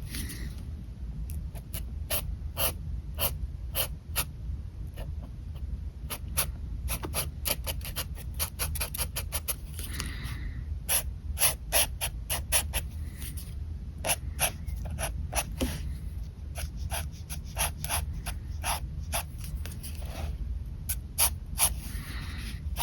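Pen scratching on paper in many quick, short, irregular strokes, with a few longer strokes about ten seconds in and near the end, over a steady low hum.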